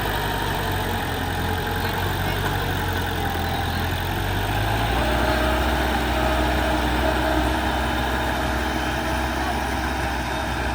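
Heavy earthmoving machine's diesel engine running steadily at low revs, its low note shifting slightly about halfway through.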